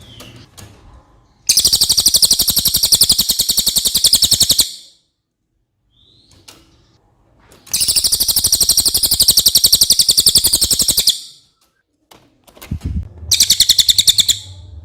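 Cililin songbird singing three long, very high, rapid trills of about three seconds each, with a few faint short chirps in the gaps. A brief low thump comes just before the third trill.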